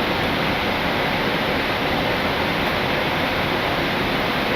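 Steady rushing hiss of airflow and air conditioning on an Airbus A320neo flight deck in the climb. It cuts in suddenly and then holds at an even level.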